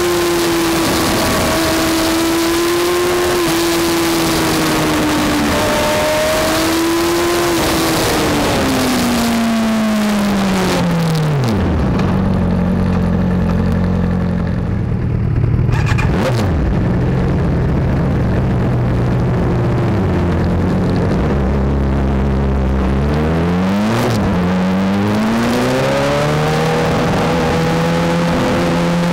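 Sport motorcycle engine heard onboard. At first it runs at high revs with wind rush, then about a third of the way in the revs fall away to a low, steady running speed for about ten seconds, and near the end it revs up again in rising sweeps through the gears.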